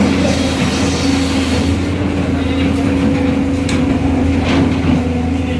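A large engine running steadily with a constant drone, with a few brief knocks in the second half.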